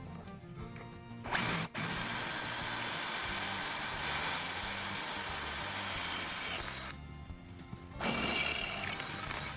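A power tool's motor runs steadily with a high whine for about five and a half seconds, stops, then starts again for the last second and a half, over background music.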